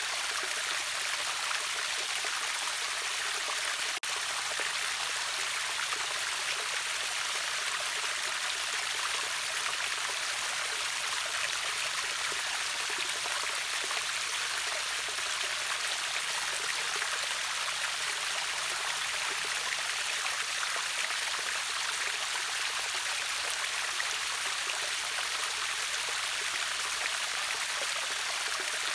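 Steady rush of falling and flowing water from a river waterfall: an even hiss, strongest in the upper register, without pauses or changes.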